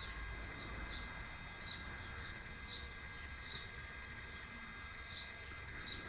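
Outdoor ambience with a small bird repeatedly giving short, high, falling chirps, roughly two a second, pausing for over a second past the middle, over a steady low rumble.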